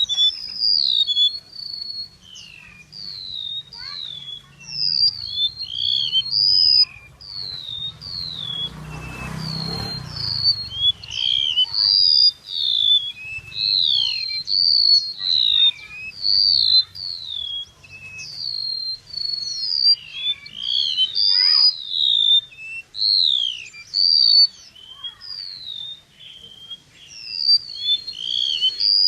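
A flowerpecker (chim sâu) keeps up a rapid run of short, high, sharply sliding chirps with no gaps longer than a moment, the call used as a lure for trapping. A brief low rumble, like wind or handling noise, passes about nine seconds in.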